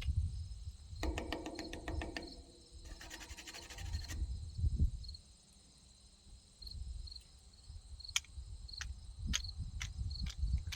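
Crickets or other insects chirping in a steady high trill with regular chirps. About a second in and again about three seconds in come short bursts of rapid clicking, with a few single sharp clicks later and a low rumble.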